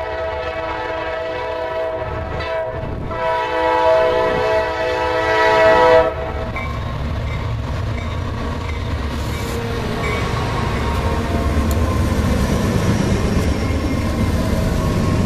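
Freight locomotive horn blowing a chord, a long blast and then a second, louder blast that cuts off about six seconds in, followed by the steady rumble and wheel noise of the train rolling past.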